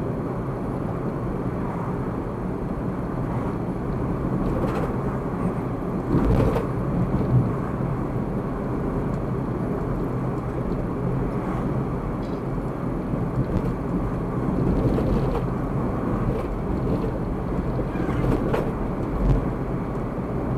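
Car driving, heard from inside the cabin: a steady drone of engine and tyre noise, with a few brief thumps, the loudest about seven seconds in and near the end.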